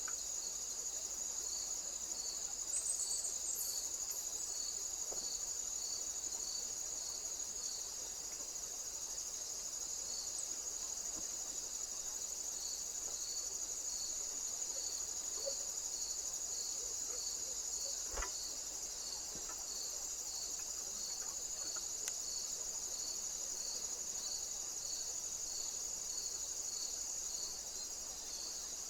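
Insects chirring: a steady high trill with a regular, slower pulsing chirp just beneath it. A single sharp click comes about 18 seconds in.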